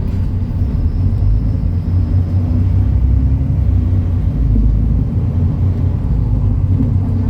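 MAN Lion's City NL293 city bus running with a steady low diesel rumble. A faint high whine sounds over it for the first few seconds.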